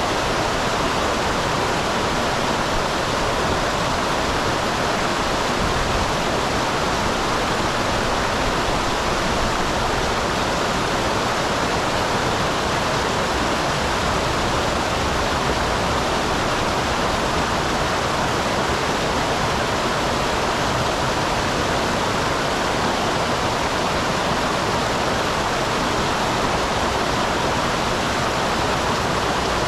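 Small waterfall in a mountain stream, water splashing and rushing steadily without change.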